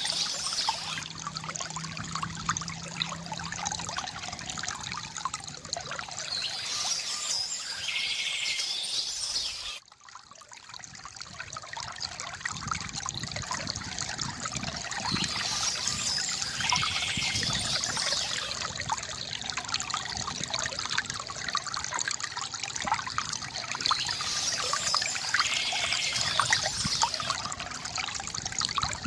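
Water trickling and splashing from a bamboo fountain, with birds chirping now and then. About a third of the way through, the water sound cuts out suddenly and swells back up over a few seconds.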